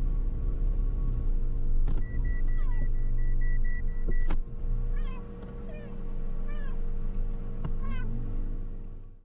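Low, steady running rumble inside a moving Toyota HiAce van, with a high electronic beep held for about two seconds, then a cat meowing four or five short times. The sound cuts off suddenly at the end.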